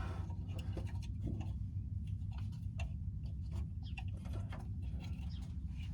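Scattered light clicks and ticks of hand tools and parts being handled during spark plug work, irregular rather than in a steady rhythm, over a steady low hum.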